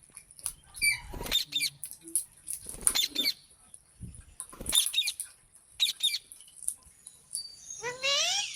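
Rose-ringed parakeets (green Indian ringneck parrots) giving a string of short, sharp squawks at irregular intervals. A louder call rising in pitch comes near the end.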